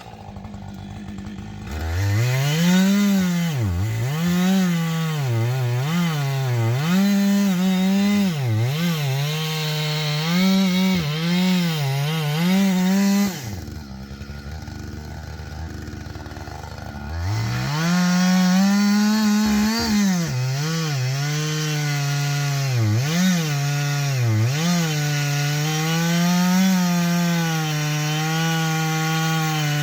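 Two-stroke chainsaw cutting into a black walnut trunk to fell it, its engine note dipping under load and climbing back again and again. About halfway through it falls back to a quieter, lower idle for a few seconds, then returns to full revs.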